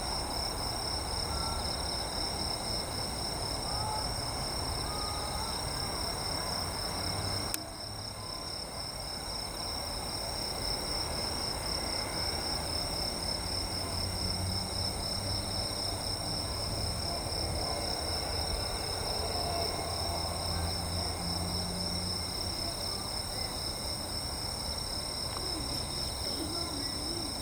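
Steady, shrill chorus of insects chirring continuously, over a low background rumble. A click about seven seconds in is followed by a brief dip in the overall level.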